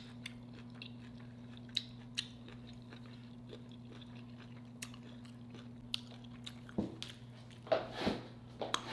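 Close-miked chewing of a mouthful of red snapper and sautéed cabbage: scattered wet clicks and smacks of the mouth, a few louder near the end. A steady low hum runs underneath.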